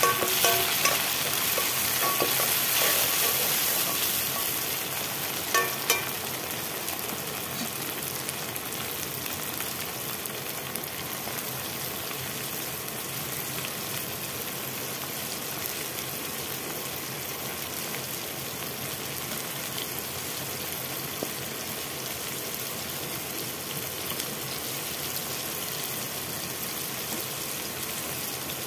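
Onions and tomatoes sizzling steadily in hot oil in an aluminium kadai. A metal ladle stirs and clinks against the pan in the first few seconds, with two sharp clinks about six seconds in. The sizzle is louder at first and then settles to an even hiss.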